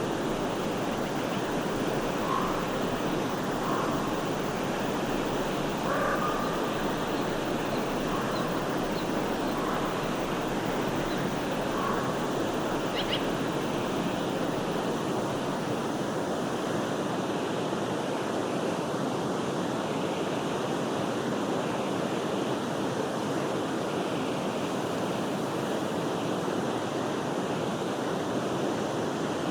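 Steady rushing flow of a forest stream, with a few faint, short bird chirps in the first half.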